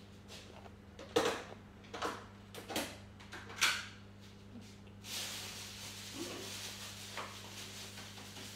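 Close-up mouth sounds of a person biting and chewing a crispy air-fried chicken burger: several sharp crunches in the first four seconds, then a few seconds of softer, steady chewing noise.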